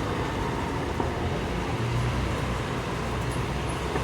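Steady city street noise: a constant rumble of road traffic, with one small click about a second in.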